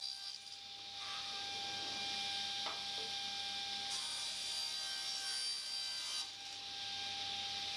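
Power saw cutting birch plywood: a steady hiss of the cut over a constant motor whine, dropping away briefly near the start and again about six seconds in.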